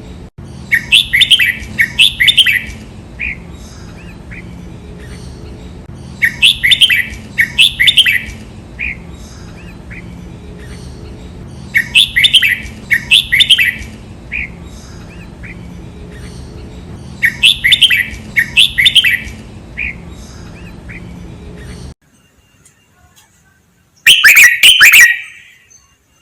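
Red-whiskered bulbul singing its song four times, each phrase doubled as two quick runs of bright notes, about every five and a half seconds over a steady low hum. The hum cuts off near the end, and a short loud burst of notes follows.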